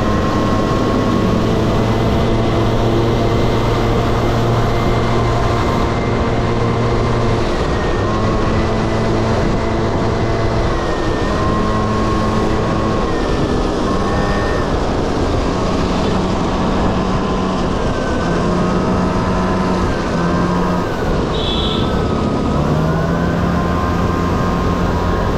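Honda Dio AF18 scooter's small two-stroke single-cylinder engine running under way, its pitch rising and falling with the throttle over a steady rushing noise.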